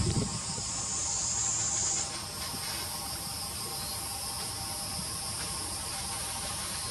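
Steady high-pitched insect chorus, with one shrill band cutting off about two seconds in and a higher, steady one continuing.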